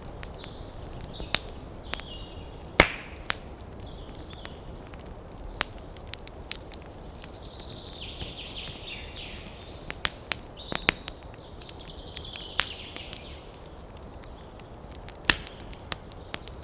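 Wood campfire crackling, with irregular sharp pops, the loudest about three seconds in and near the end. Birds chirp in the background.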